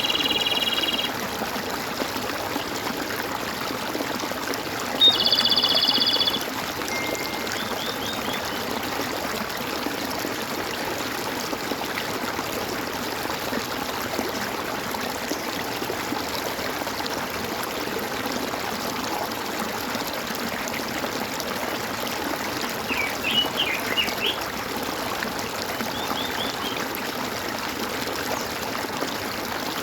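Stream water running and trickling steadily, with birds calling over it: a short buzzy call at the start, a louder one about five seconds in, and scattered quick chirps later on.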